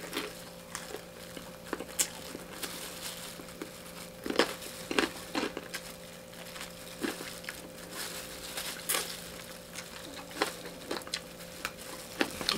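Close-up eating of crispy fried chicken by hand: irregular crunchy bites and chewing crackles, a few louder crunches among them, with the crinkle of a thin plastic food glove. A faint steady hum sits underneath.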